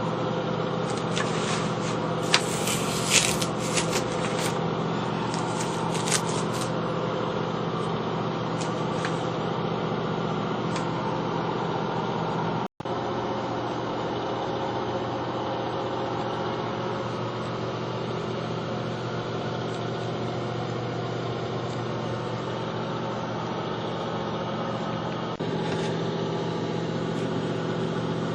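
A steady mechanical hum, like a small motor running, with a few short scrapes or clicks in the first few seconds. The hum drops out for an instant about halfway through.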